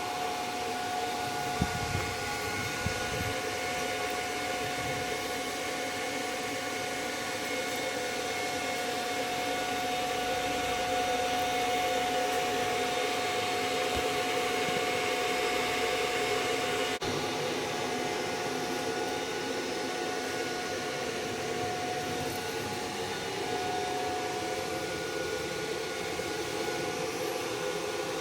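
Stick welding with a 7018 electrode on a motorcycle chassis: a steady arc hiss with a constant hum running underneath.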